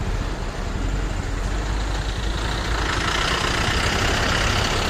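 Heavy vehicle engines idling in stalled traffic: a steady low rumble. A louder rushing noise swells up about halfway through.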